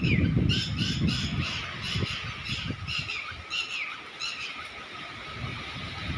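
A bird giving a run of about eight harsh squawks, each falling in pitch, roughly two a second, that stop about four and a half seconds in. Under it, storm wind gusts and rumbles on the microphone.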